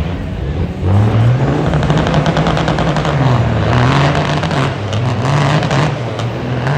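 Truck engine revving hard under load, coming in loud about a second in, its pitch rising and dipping several times.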